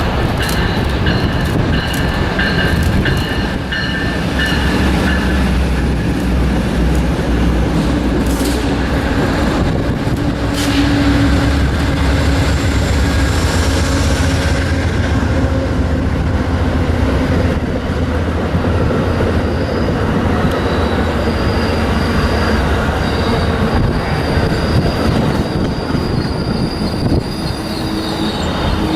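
A train running past close by: a steady low rumble with clicking from the wheels over the rail joints, and high-pitched wheel squeal on the rails in the second half.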